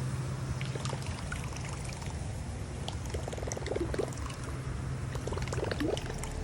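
Whopper Plopper 110 topwater bait retrieved across choppy water, its rotating tail churning and plopping in a quick gurgling rhythm over steady wind noise.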